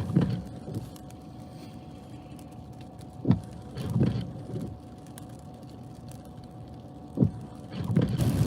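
Vehicle running with a steady low rumble heard from inside the cabin. Short knocks cut through it in pairs, about every four seconds.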